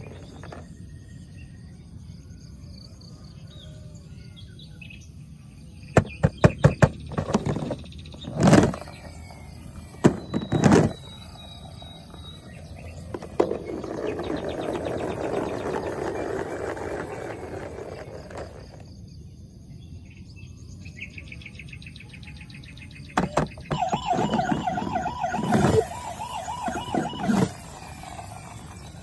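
Toy emergency vehicle's electronic siren sound effect, a repeating pitched wail near the end. Earlier come several sharp clacks and a rushing noise lasting a few seconds.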